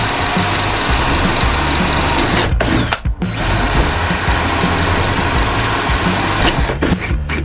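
Power drill running almost continuously, dropping out briefly about two and a half and three seconds in, with background music under it.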